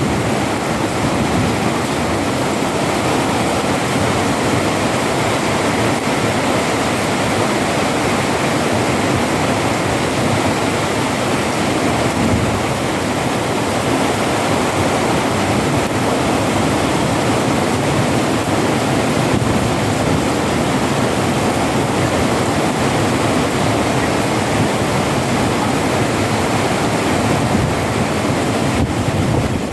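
Heavy downpour with hail falling, a loud, steady rush of noise that does not let up.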